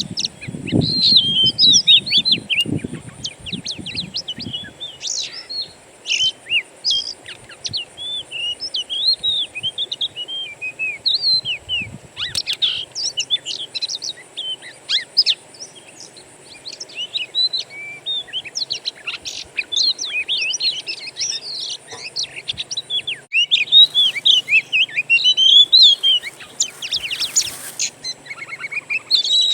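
Wild songbirds chirping and singing in a busy chorus of quick, overlapping high notes and trills.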